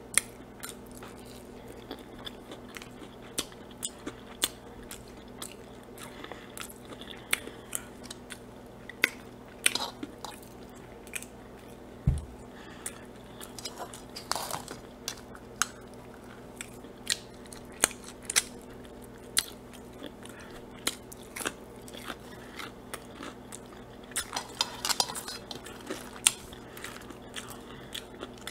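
A person chewing and biting fried food close to the microphone: irregular crunches and wet mouth clicks, with a single dull knock about twelve seconds in.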